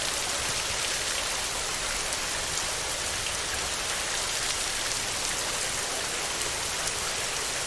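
Heavy rain falling steadily on a tin roof: an even hiss with scattered drops ticking.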